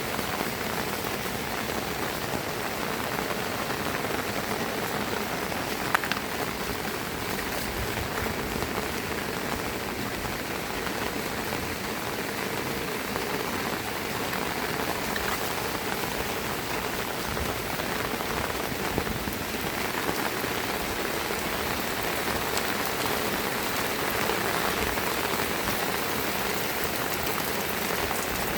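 Heavy rain falling steadily and hard on surfaces, a dense even patter, with a single sharp tap about six seconds in.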